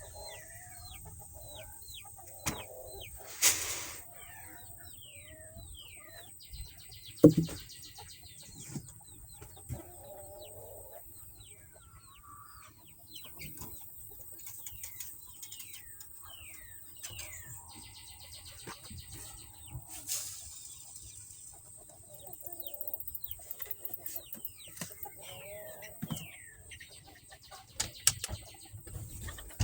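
Chickens: many short, high, falling peeps from young chicks, with lower clucking among them and a few sharp knocks, the loudest about seven seconds in.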